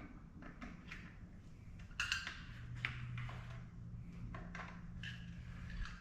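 Scattered light knocks and clicks, as of parts or tools being handled, over a faint steady low hum. A slightly louder cluster of knocks comes about two seconds in.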